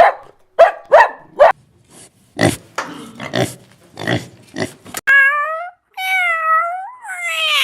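A dog's last few sharp barks, then a run of low grunts about every half second. From about five seconds in come long, wavering bleats, most likely a sheep's.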